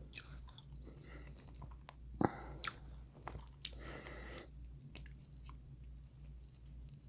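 Close-miked chewing and biting of seafood boil food, with scattered soft crunches and wet clicks, one louder crunch about two seconds in.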